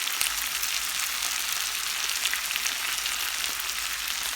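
Sea bass pieces frying in hot oil in a pan with red onion and lemon: a steady sizzle with scattered small crackles.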